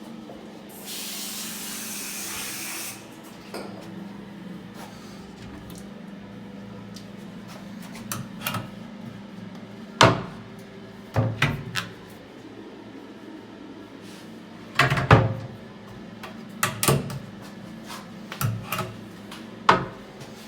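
Handling of doors and cupboards in a small room: a series of sharp knocks and clicks, grouped around the middle and the second half, after a hiss lasting about two seconds near the start.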